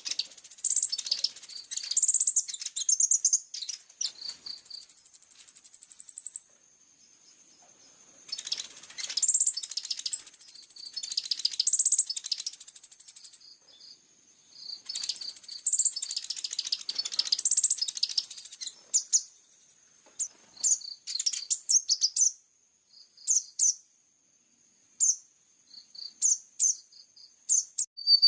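A kolibri ninja sunbird singing in very high, rapid bursts of sharp chattering notes and trills, the fast 'tembakan' (shot-like) phrases prized in Indonesian songbird training. The song comes in stretches of a few seconds, with one long, even trill about five seconds in and short pauses between phrases.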